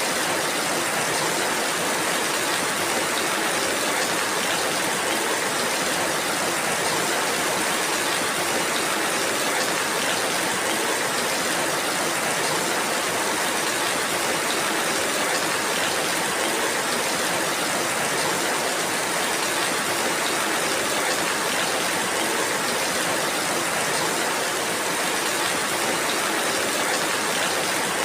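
Steady rainfall, an even hiss with no breaks, single drops or changes in level.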